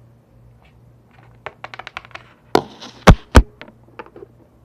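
A quick run of light taps and clicks, then a short rustle and two loud, heavy thumps close together, followed by a few faint clicks.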